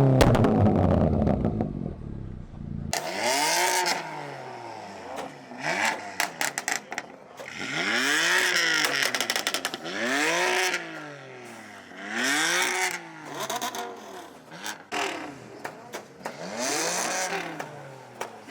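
A car engine revved repeatedly in short blips, each rising and falling in pitch, roughly every two seconds. Before that, a loud low engine sound cuts off abruptly about three seconds in.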